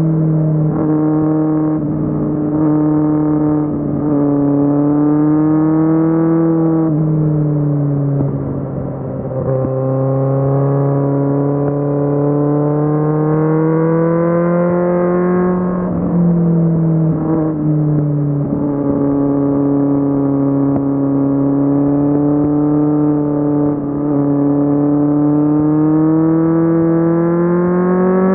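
Kawasaki Z750's inline-four engine running under way. The engine note dips about a third of the way in, climbs slowly for several seconds, falls back, and starts climbing again near the end.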